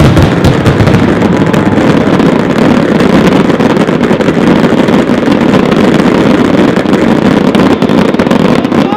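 Dense fireworks barrage: many overlapping bangs and crackles blending into one continuous din, which drops off suddenly at the very end.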